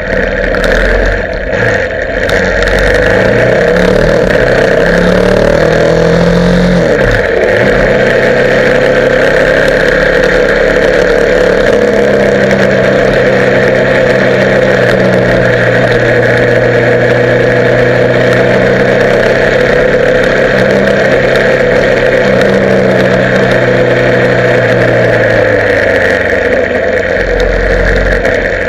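Motorcycle engine under way with steady wind rush. The engine note rises and falls several times in the first few seconds, as with gear changes, then holds steady and eases off near the end.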